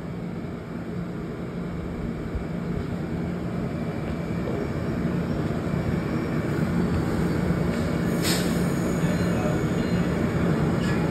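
MARC commuter train's passenger coaches pulling out along the platform: a steady rumble and hum that slowly grows louder as the train gets moving, with a brief sharp high-pitched sound about eight seconds in.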